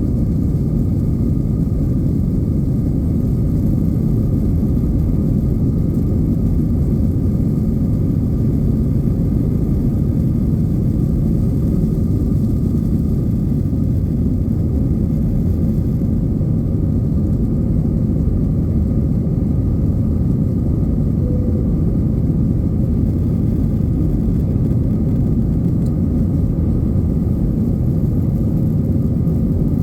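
Steady low rumble of an Airbus A321-200's engines and airflow, heard from inside the passenger cabin.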